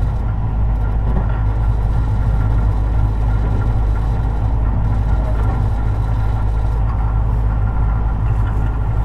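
Tobu 50090 series electric train running steadily along the track, heard inside the car near the underfloor: a steady low rumble of wheels and running gear with faint steady tones above it and no change in pitch.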